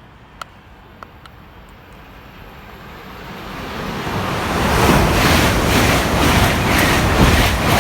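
A fast train approaching and passing through the station at speed: a rushing noise that swells over a few seconds and stays loud, with a rhythmic clatter of wheels over the rails from about five seconds in, plus wind buffeting the microphone.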